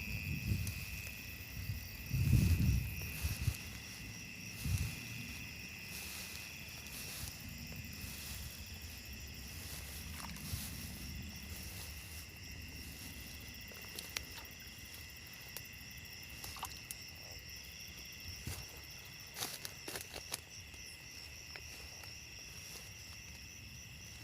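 Steady insect chorus with a high, even trill. About two seconds in there is a louder rustling and knocking from close handling, and a few sharp clicks come later.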